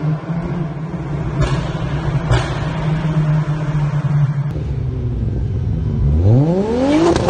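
Performance car engine idling steadily, with two short bursts of noise about one and a half and two and a half seconds in, then revving up sharply in the last second.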